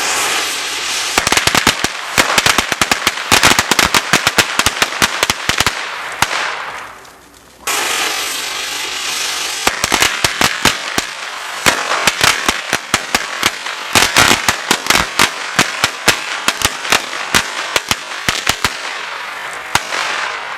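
Strings of red firecrackers going off: rapid, irregular runs of sharp bangs over a steady hiss, in two runs with a short break about seven seconds in.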